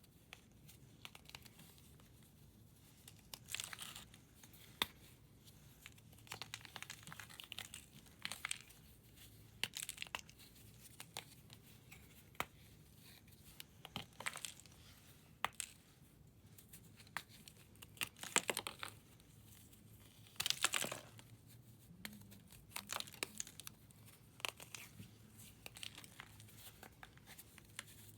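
Blocks of pressed powder (reformed chalk, corn starch or cleaning powder) being crumbled and shaved by hand. Dry crunches and crackles come in irregular bursts every second or two, with sharp snaps between them.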